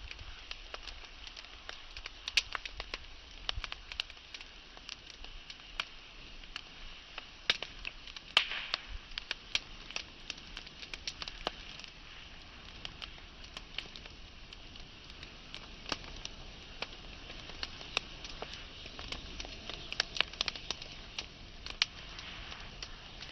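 Wood fire burning, crackling with frequent irregular sharp pops over a soft steady hiss; the loudest pop comes about seven and a half seconds in.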